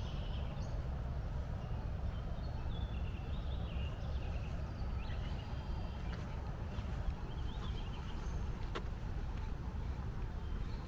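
Birds chirping in short, scattered calls over a steady low rumble, with a single sharp click late on.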